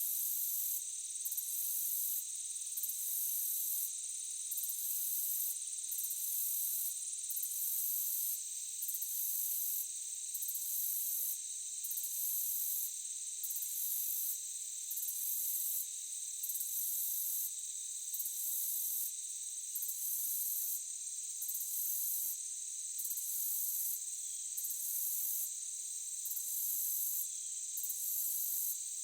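Insects chirring in a forest at night: a steady high drone under a very high trill that breaks off briefly about every second and a half.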